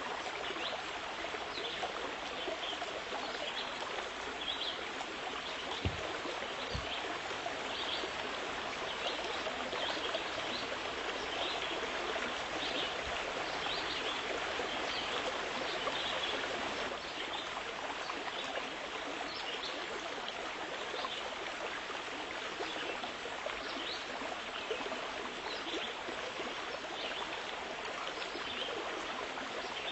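Steady rush of flowing water, like a stream, with faint short high chirps throughout.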